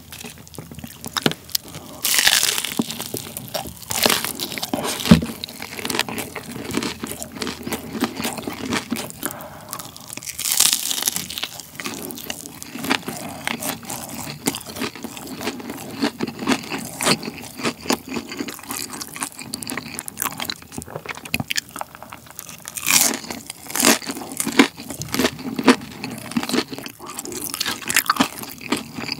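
Close-miked crunching and chewing of a crispy hash brown waffle with cheese and bacon, with louder bites near the start, in the middle and near the end.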